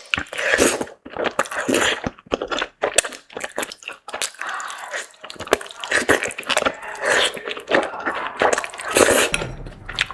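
Close-miked eating sounds: a quick, irregular run of chewing, crunching and wet mouth noises.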